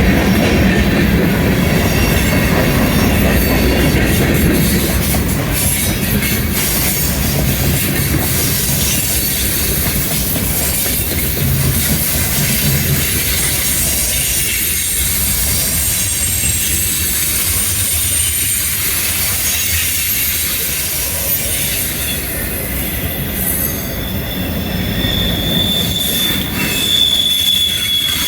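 Freight cars rolling past on steel rails, a steady rumble of wheels on track with thin high wheel squeal coming and going; one squeal holds steady for a few seconds near the end.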